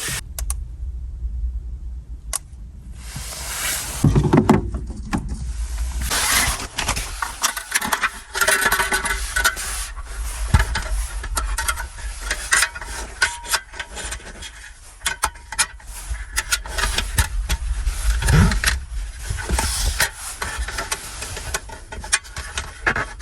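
Strong wind on the microphone, a constant low rumble with gusty swells, over many scattered clicks and knocks of handling.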